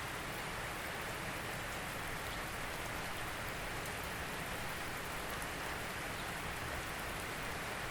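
Steady rain falling, an even hiss of many drops with a few sharper drop ticks.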